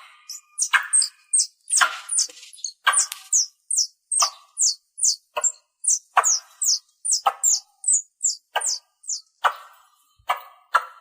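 Squirrel calling: a fast series of sharp high chirps, each falling in pitch, about three a second, mixed with harsher lower chips. The chirps stop about nine seconds in while the chips carry on.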